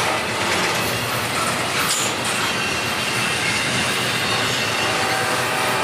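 Double-stack intermodal well cars rolling past: steady steel-wheel-on-rail noise with a faint high wheel squeal.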